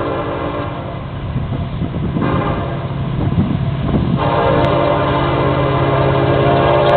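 Florida East Coast Railway freight train's lead diesel locomotives approaching with the horn blowing: a blast that stops about a second in, a weaker second blast in the middle, then a louder blast from about four seconds in that is still sounding at the end, all over the steady low rumble of the engines.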